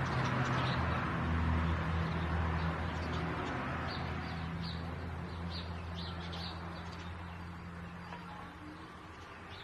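Short, high chirps like small birds, repeated at irregular intervals over a steady low hum and a hiss that slowly fades.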